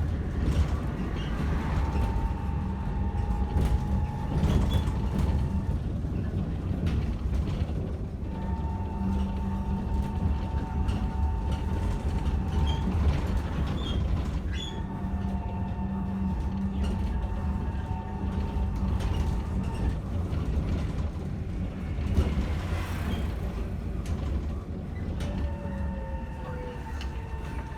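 Bohdan T90110 trolleybus under way, heard from inside: a steady rumble of the ride with scattered knocks, and the electric traction drive's whine coming and going as it pulls away and coasts. Near the end the whine falls in pitch.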